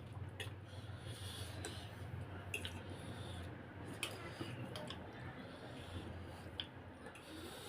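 Faint sounds of eating noodles: scattered light clicks of cutlery against a bowl and soft wet mouth sounds, over a low steady hum.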